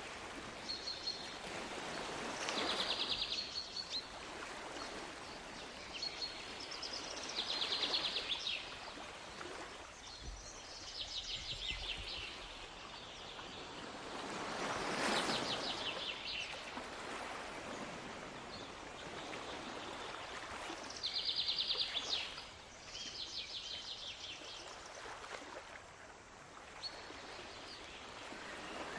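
Waves washing in slow swells every six or seven seconds, with a bird repeatedly singing short, rapid trills.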